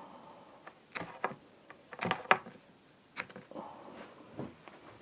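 A knife blade scraped hard against a small fire-steel (ferro rod) to throw sparks onto cotton wool, in about five sharp, irregular strikes.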